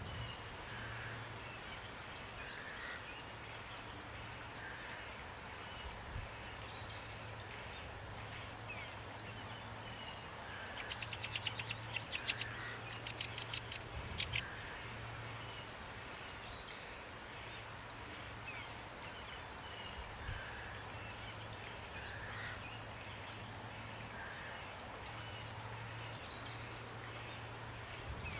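Steady rain with small birds singing: repeated high chirps throughout and a rapid trill about halfway through. A low hum comes and goes underneath.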